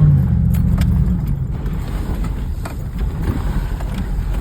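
Truck engine revving, then easing off about a second in and running on as a steady low rumble, with a few sharp knocks or rattles.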